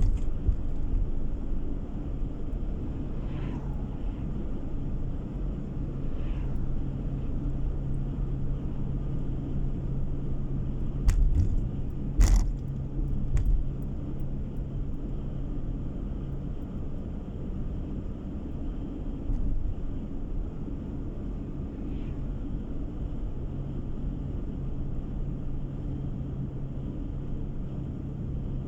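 Car driving along a road, heard from inside the cabin: a steady engine drone and tyre noise, with a few sharp knocks about halfway through.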